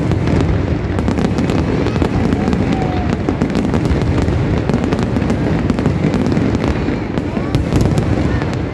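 A fireworks display going off in a dense, continuous barrage: many sharp cracks and pops layered over a steady low rumble, with no pause.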